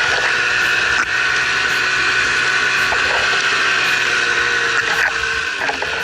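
Snowmobile engine running hard and loud, steady, with the revs shifting near the end.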